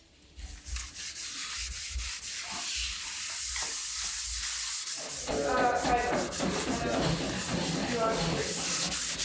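Wood being rasped or scraped by a hand tool: a continuous rough, hissing friction with many small irregular scratches, louder from about five seconds in.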